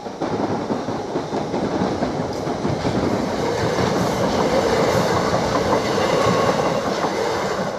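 Southeastern Class 375 Electrostar electric multiple unit passing at speed: a loud, steady rush of wheels on rail, with many short knocks in it, falling away near the end as the last carriage clears.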